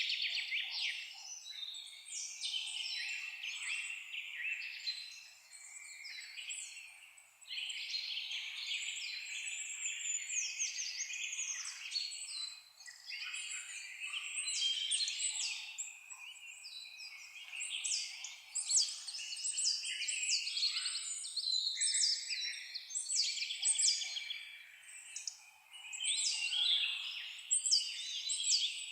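Chorus of several forest songbirds singing over one another in quick chirps, trills and short whistled phrases, with brief lulls between bursts.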